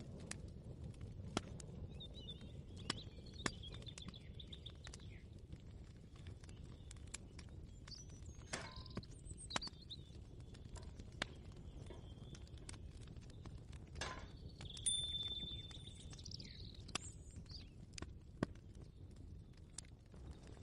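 Kitchen ambience: scattered light clicks and knocks over a low steady rumble, with birds chirping now and then, a short trill about two seconds in and a clearer one around fifteen seconds in.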